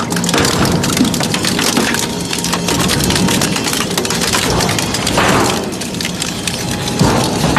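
Industrial metal shredder tearing through scrap metal: continuous crunching and cracking with many sharp snaps over the steady low hum of the machine, with a louder rush of crunching about five seconds in.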